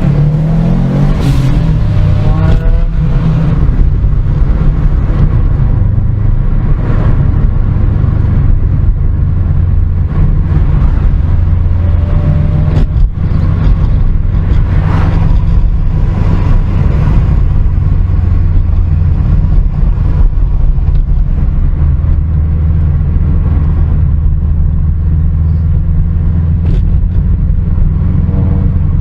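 Car engine running under way, a steady low rumble with road noise, its pitch rising and falling with the revs in the first few seconds.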